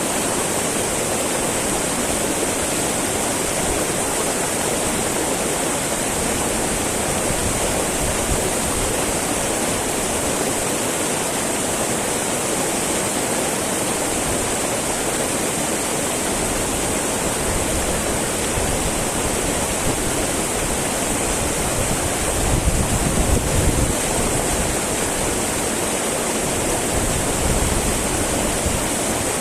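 Small mountain stream babbling and rushing over rocks, a steady wash of water noise, with gusts of low rumble from wind on the microphone a little past the middle.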